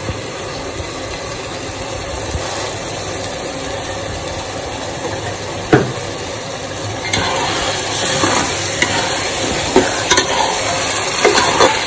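Onion-tomato masala frying in oil in a metal pot, a steady sizzle, with one sharp knock a little before six seconds. From about seven seconds in, a metal spatula stirs and scrapes the masala around the pot, louder, with frequent clicks against the pot.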